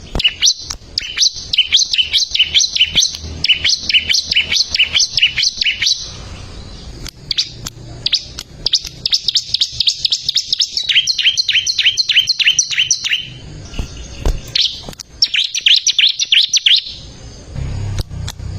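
Bar-winged prinia (ciblek) singing in three long runs of rapid, repeated high chirps, separated by short pauses.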